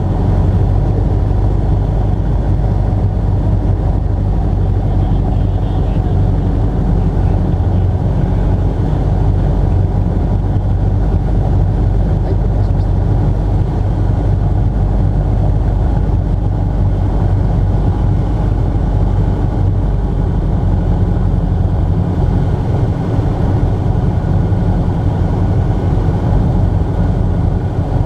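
Motor glider's piston engine and propeller running steadily: an even, unchanging low drone.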